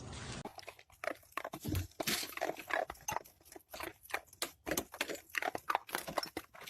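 A pet animal making a rapid, irregular run of short, sharp sounds, starting about half a second in and going on to the end.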